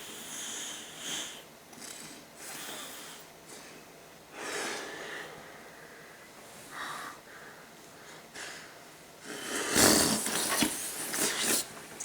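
A person breathing hard and blowing air into a large wad of bubble gum while trying to blow a bubble, with several short breathy puffs. A louder, noisier burst of blowing comes near the end.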